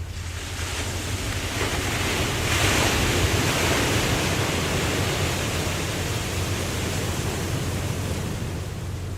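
Ocean wave breaking and washing in: the surf hiss swells over the first couple of seconds, is loudest about three seconds in, and slowly fades away. A steady low rumble runs underneath.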